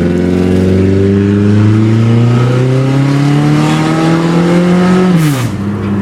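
Chevrolet Cavalier engine with no exhaust pipe, the pipe having rotted through and fallen off, run hard at full throttle: its loud, unmuffled note climbs steadily in pitch for about five seconds, then drops sharply near the end as the throttle is let off.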